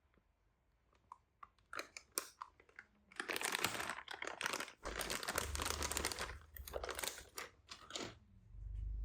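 Graphics card packaging being handled: a few light clicks, then plastic wrapping crinkling and rustling in several bursts, loudest from about three seconds in, with low handling bumps underneath.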